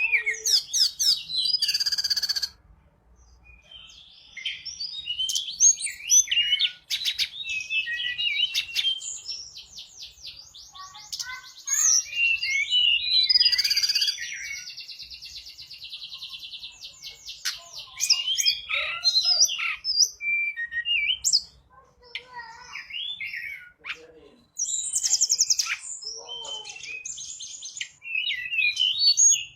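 A tledekan gunung songbird singing vigorously: a long, varied run of chirps, fast rattling trills and swooping whistled notes, broken by short pauses.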